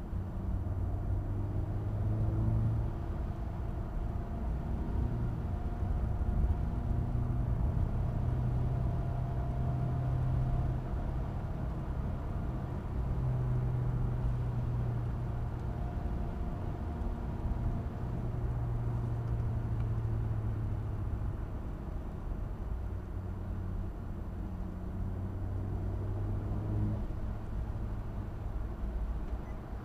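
Race car engine heard from inside the cabin under a low rumble, its note climbing and dropping several times as the car accelerates and lifts between corners.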